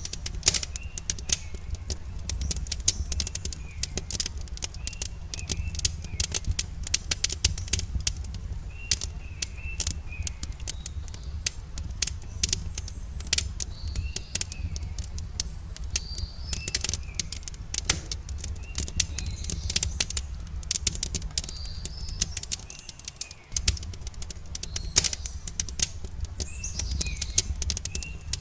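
Wood campfire crackling and popping in quick, irregular clicks over a steady low rumble, with songbirds chirping in short repeated phrases throughout. The rumble drops out briefly about 23 seconds in.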